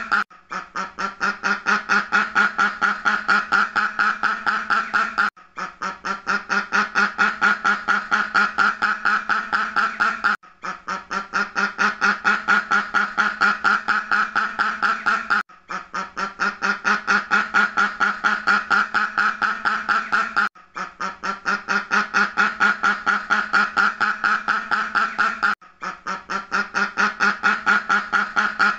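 A duck quacking in fast, unbroken runs of several quacks a second. The same run of about five seconds repeats as a loop, each time after a brief gap.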